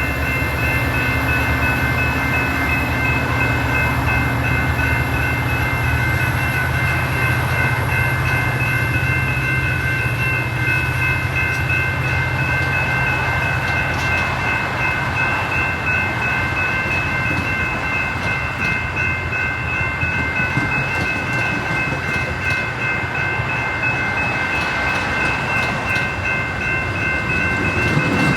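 A Metra commuter train with its diesel locomotive at the station, a heavy low engine rumble for the first dozen seconds that then eases under the steady noise of the train cars. Through it all, grade-crossing bells ring steadily in high repeating tones.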